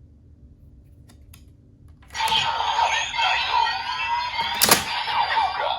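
CSM Decadriver ver.2 toy transformation belt. Two faint clicks about a second in, then its electronic sound effects start loud about two seconds in, many sweeping tones layered together, with one sharp hit near the end.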